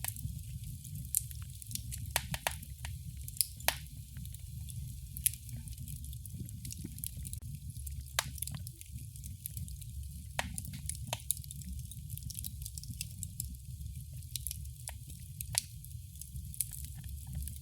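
Wood fire crackling in a fireplace: irregular sharp pops and snaps, a dozen or so scattered through, over a low steady rumble of the flames.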